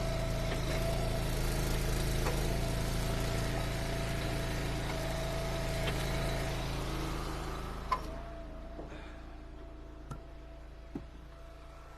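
Vehicle engine idling steadily. A single sharp knock comes about eight seconds in, after which the engine sounds much quieter and muffled, with a few faint ticks.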